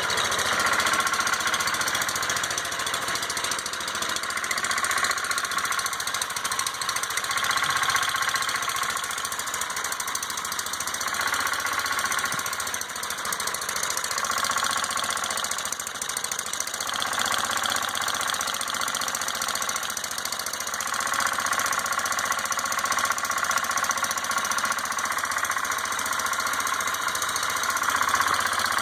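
Ford LGT145 garden tractor engine running continuously, its tone swelling and easing a little every few seconds.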